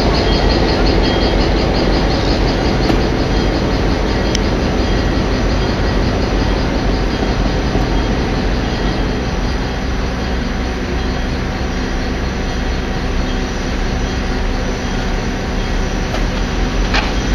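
Passenger railroad cars rolling past close by: a steady rumble of wheels and trucks on the rails, with a brief high squeak near the end.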